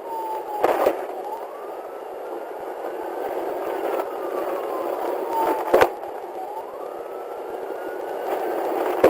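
Police siren on a slow wail, its pitch rising and falling about once every five seconds over steady road noise, with two sharp clicks about a second in and near the six-second mark.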